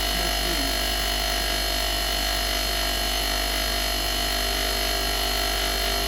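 Steady hiss and electrical hum with several steady tones, unchanging throughout and with no distinct event.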